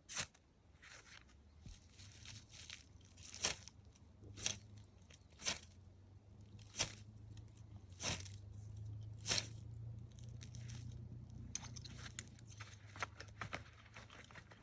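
A series of sharp crunches or snaps, about one a second, with a low steady hum underneath through the middle.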